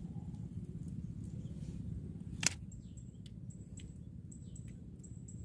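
A small bird chirping repeatedly, quick high chirps that each drop in pitch, starting about halfway through, over a steady low rumble. A single sharp click comes just before the chirping begins.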